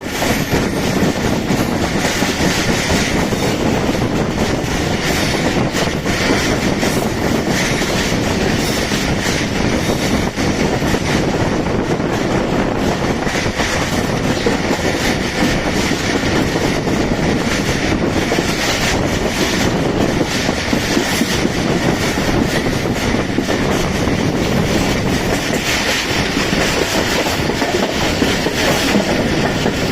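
Karakoram Express passenger train running along the track: a loud, steady rumble of wheels and carriages with fast clicking over the rail joints.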